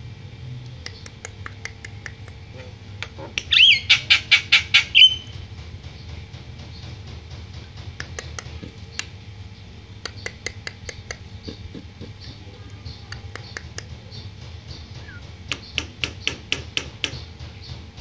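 Javan myna (jalak kebo) calling in rapid runs of harsh, clicking notes, about eight to ten a second. The loudest run comes a few seconds in, with shorter runs near the middle and near the end. The keeper puts the restless calling down to the bird not yet having had its bath.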